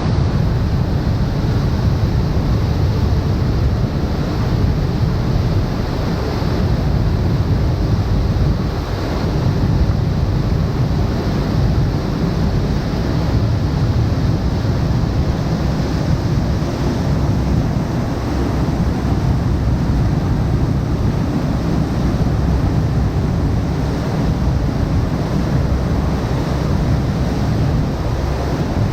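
Waterfall on a glacier-fed river, heard up close: a loud, steady rushing of falling and cascading water with a deep rumble.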